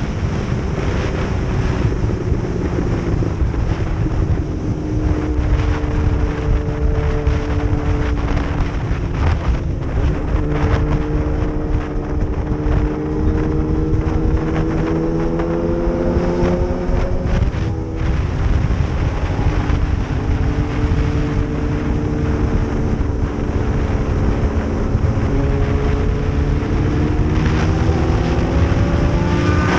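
Motorcycle engine running at a steady road speed under heavy wind noise, its pitch drifting slowly up and down, then climbing quickly as it accelerates near the end.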